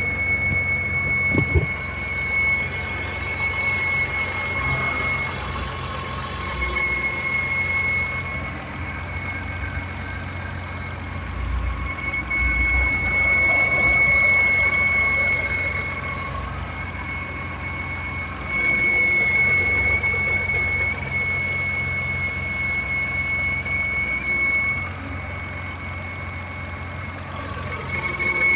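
BMW engine idling with a high-pitched squeal that fades in and out every few seconds. It is a scraping squeak that the owner cannot place, whether an idler pulley, the alternator or the camshaft.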